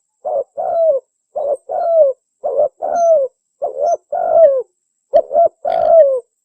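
Spotted dove (tekukur) cooing loudly, played as a lure call: repeated phrases of a short coo followed by a longer coo that falls in pitch, about one phrase a second, five phrases, then it breaks off shortly before the end.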